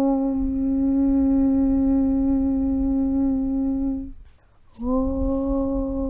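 A voice chanting a long, steady 'Aum' (Om) on one held pitch. It breaks off about four seconds in for a breath, then starts again with a slight upward slide into the same note.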